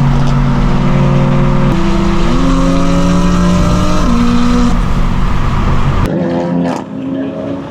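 Straight-piped BMW engine running loud at steady throttle. Its pitch steps up about two seconds in and drops back around four seconds. About six seconds in the deep exhaust sound cuts off abruptly, leaving a quieter, thinner car sound.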